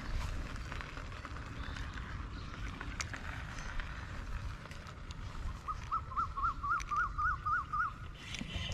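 Outdoor rumble of wind on the microphone, with a few faint clicks. A bird calls a quick run of about eight short rising-and-falling notes, starting a little past halfway and lasting about two seconds.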